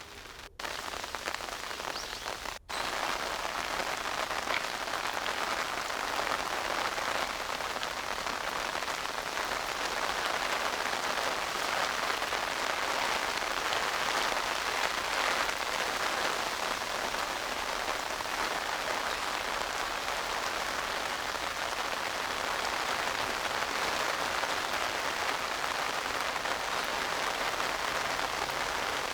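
Steady rain falling, a dense even hiss of drops, with two very brief cut-outs in the first few seconds.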